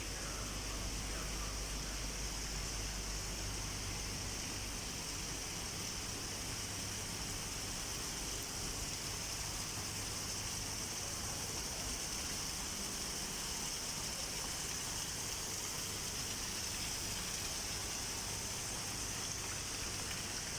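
Waterfall water rushing down steadily, an unbroken hiss of falling and splashing water.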